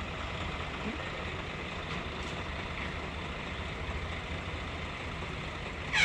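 Heavy diesel engine running steadily at low revs, a low rumble.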